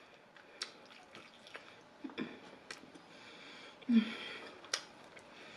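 Close-miked chewing and wet mouth sounds of someone eating, with scattered sharp clicks and two louder short low sounds about two and four seconds in.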